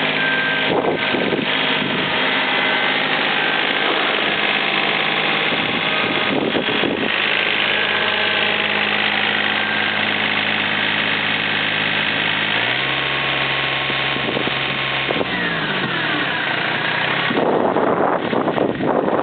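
John Deere 955's three-cylinder diesel engine idling steadily. Its note changes about two-thirds of the way in, then the engine runs down and stops, leaving wind noise on the microphone.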